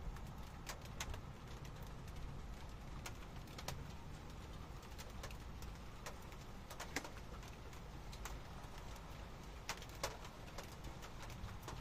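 Rain in a thunderstorm: irregular sharp taps of drops striking a hard surface, several a second, over a steady low rumbling noise.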